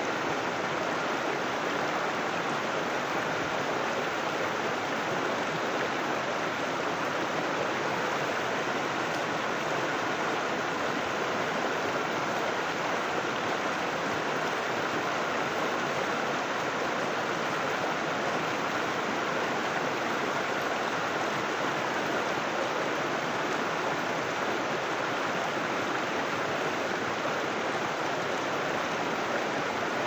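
River water rushing and splashing over rocks, a steady, unbroken sound.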